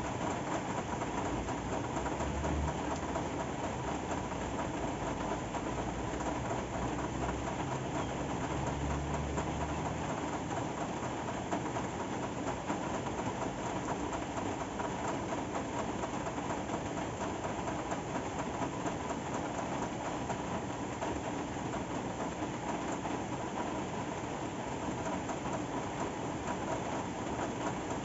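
Steady rain falling, an even unbroken hiss, with a low rumble that comes and goes in the first ten seconds or so.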